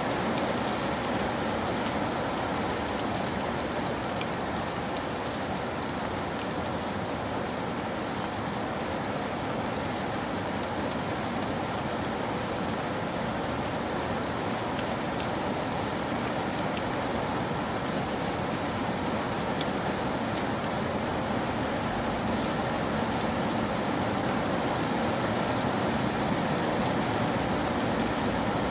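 Steady rain falling, a dense even patter of raindrops on a surface. A low rumble builds underneath in the last few seconds.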